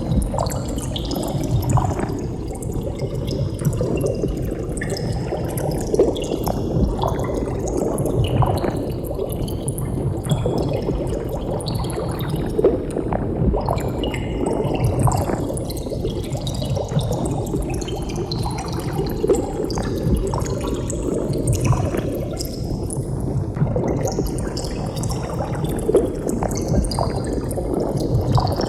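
Steady underwater bubbling: a dense stream of bubbles gurgling, with many small irregular pops over a low rush.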